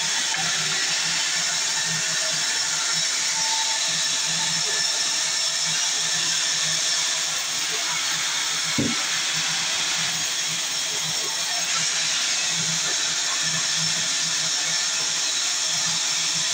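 Sawmill saw running steadily through mahogany, with one short knock about halfway through.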